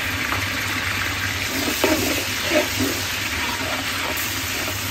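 Golden-brown onions and ginger-garlic paste sizzling steadily in hot oil in a large steel pot, with a few knocks of a metal spatula stirring against the pot about two seconds in.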